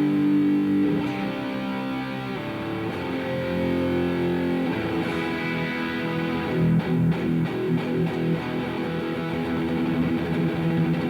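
Distorted electric guitar played through a Revv G3 preamp pedal on its red, high-gain channel, into the front of a Mesa Boogie amp with delay and reverb after it. It plays sustained chords that change every second or two, with a choppier run of short repeated strokes about two-thirds of the way through.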